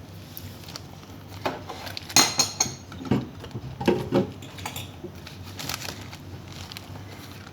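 Cutlery clinking and knocking against dishes during a meal: a cluster of sharp clinks, the loudest with a brief ring about two seconds in.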